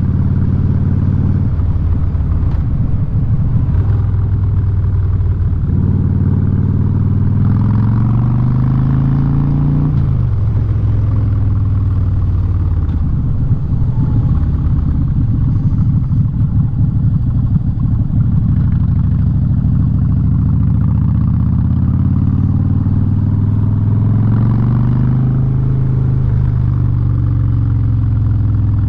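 Harley-Davidson Street Bob V-twin running through a loud Vance & Hines aftermarket exhaust under way. The engine note climbs twice, about a third of the way in and again near the end, each time dropping back as the rider shifts or eases off the throttle.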